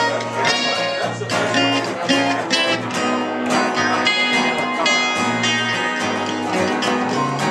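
Acoustic guitar and dobro playing together, a stream of plucked, ringing notes over repeating bass notes.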